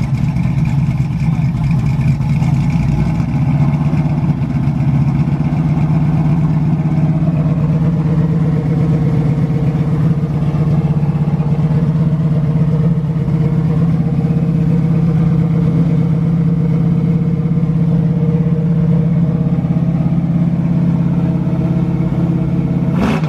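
A car engine running steadily at low revs, a deep even drone, with a brief rise and fall in pitch near the end.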